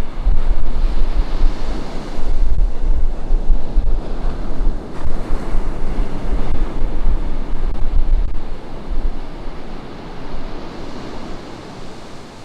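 Ocean surf washing onto a beach, a continuous wash that swells and ebbs, with wind buffeting the microphone in a low rumble that eases off near the end.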